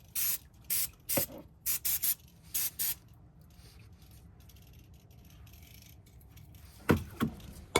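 Aerosol brake cleaner sprayed in short hissing bursts, about two a second, for the first three seconds. A few sharp metallic clinks follow near the end.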